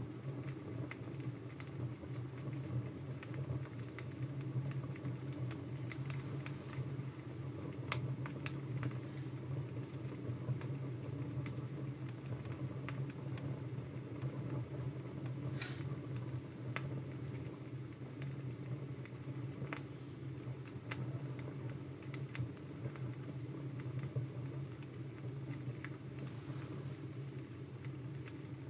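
Wood fire crackling: scattered sharp pops and snaps over a steady low rush of flame.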